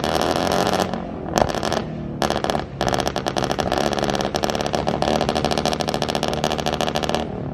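Car engine revved hard with a rapid stutter of sharp exhaust pulses, dropping out briefly about a second in and again near two seconds in.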